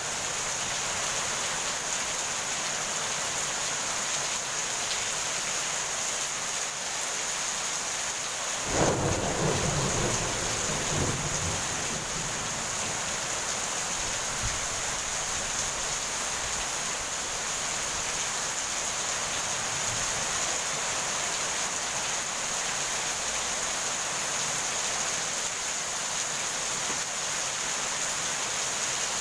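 Heavy rain falling steadily, with one sudden thunderclap about nine seconds in that rumbles and fades over the next few seconds.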